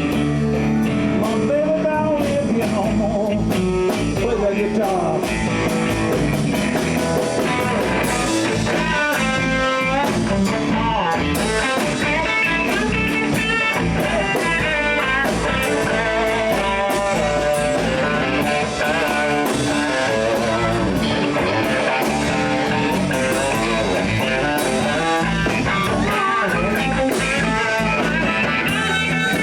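A live blues band playing at full volume: guitar over bass and drums with a steady beat.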